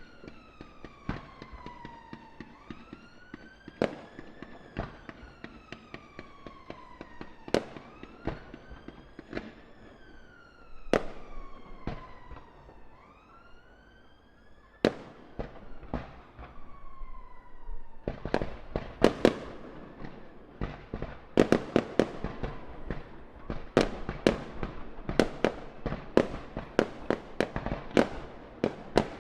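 Aerial fireworks exploding with sharp bangs, scattered at first, then a rapid barrage of many cracks a second from about two-thirds of the way in. Through the first half an emergency-vehicle siren wails up and down, then fades out.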